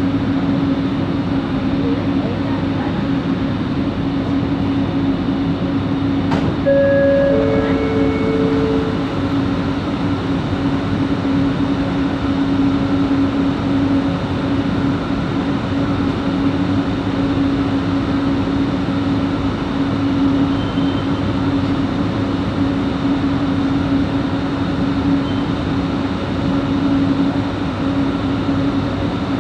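Light-rail train running between stations, heard from inside the coach, with a steady droning tone from the traction motor: the weird motor noise that this train's coach 4 is making. About seven seconds in there is a click and then a short two-note descending tone.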